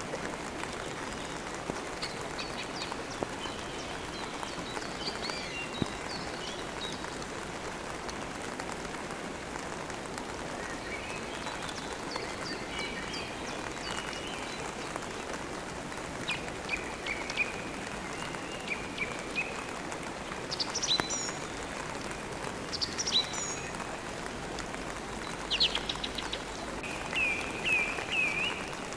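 Steady rain, with songbirds chirping and trilling on and off over it.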